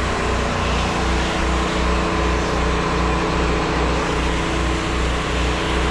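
Pressure washer engine and pump running steadily, with an even, pulsing low throb and a constant hiss over it.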